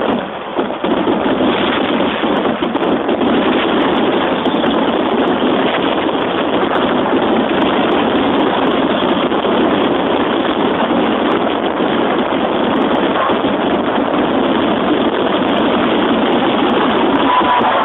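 Fireworks finale barrage: shells bursting so fast that their reports merge into one steady, dense rumble. It is heard through a mobile phone's microphone, which cuts off the highs.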